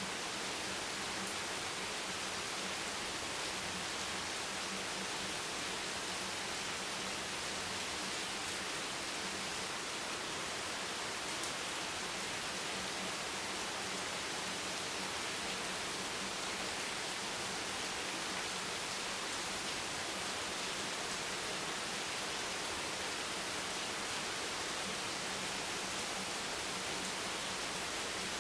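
Steady rain falling as an even hiss, with no separate drops or changes standing out.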